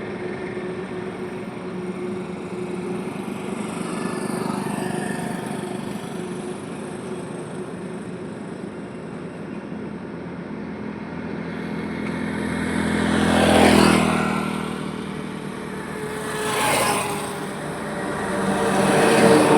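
Highway traffic heard from the roadside: a steady hum of engines and tyres, with three vehicles passing close in the second half, each swelling and fading, the first and last the loudest.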